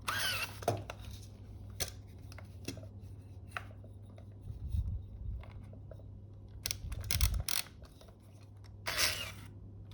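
Small clicks and brief rubbing and scraping sounds from hand work on an opened Fuji GA645 camera, as glue is cleaned off its shutter flex cable, over a steady low hum.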